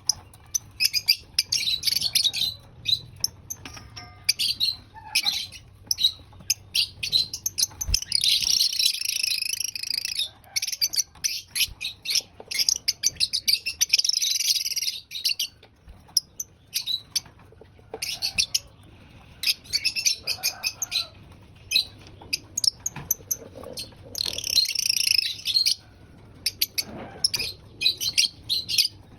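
Lovebirds chirping and chattering in rapid high-pitched bursts, with several longer runs of dense chatter.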